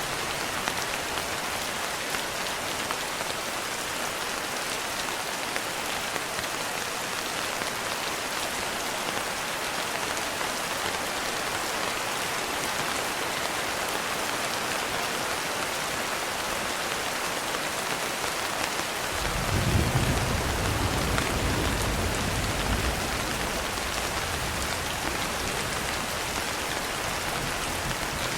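Steady rain, an even hiss of drops, with a low roll of thunder rising about two-thirds of the way through and fading away over several seconds.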